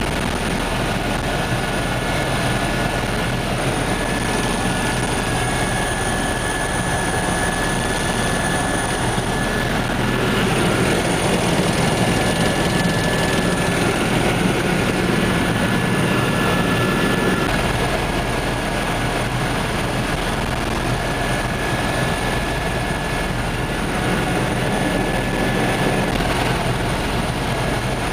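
Helicopter engine and rotor noise during flight: a steady dense drone with a thin high whine, swelling a little near the middle.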